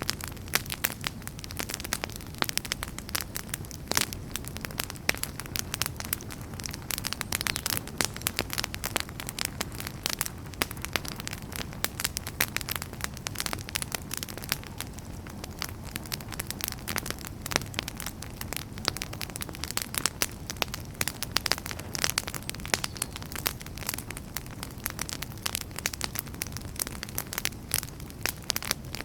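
Wood fire burning in a fireplace: logs crackling and popping in dense, irregular snaps over a low, steady rumble of flame.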